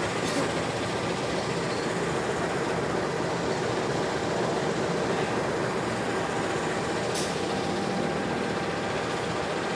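Steady rumble of a freight train standing in a rail yard, with two faint clicks, one near the start and one about seven seconds later.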